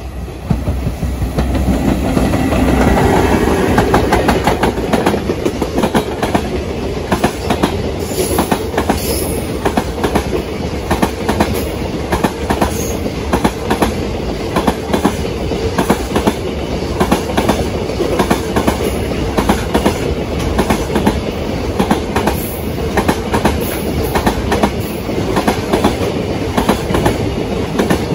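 JR Freight EF210 electric locomotive passing close by, its sound swelling over the first few seconds. A long train of container flatcars follows, their wheels clattering steadily over the rail joints in a continuous clickety-clack.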